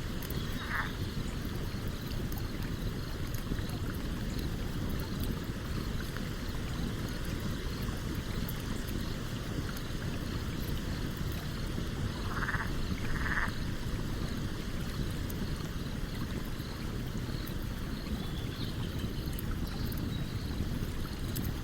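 Stream water flowing with a steady rush, with light crackles from a campfire. Three short calls stand out, one about a second in and two close together about twelve to thirteen seconds in.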